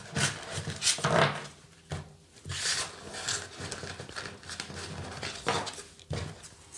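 Tarot cards being handled: a series of short paper rustles and light taps on the table at irregular moments.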